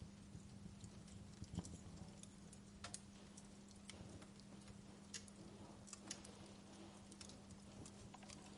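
Wood fire in a fireplace crackling faintly, with irregular small pops and snaps, a few sharper ones, over a steady low hum.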